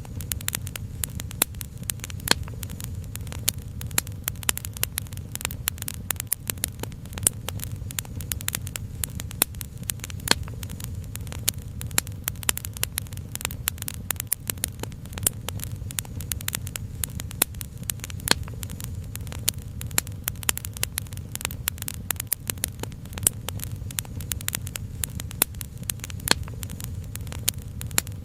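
Wood fire crackling, with many small sharp pops and snaps over a low steady rumble.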